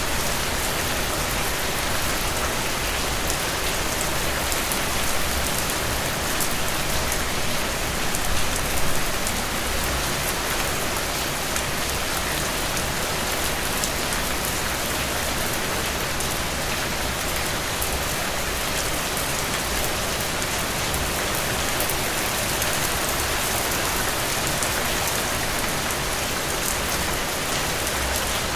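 Heavy, steady rain falling on open ground and puddles, a dense even hiss with individual drops pattering through it, briefly a little louder about eight seconds in.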